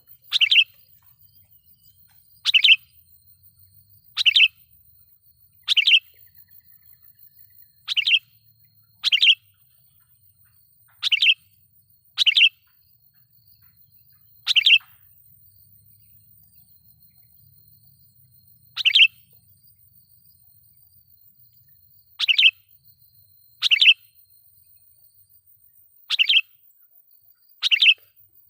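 Sooty-headed bulbul (kutilang) giving loud, short chirping calls, about fourteen of them spaced irregularly a second or several seconds apart, a lure call for provoking wild bulbuls.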